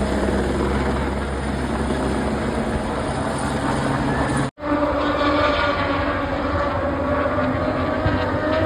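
A vehicle running with a steady low hum. After an abrupt cut about halfway through, a whine with several tones rises slowly and evenly in pitch as it accelerates.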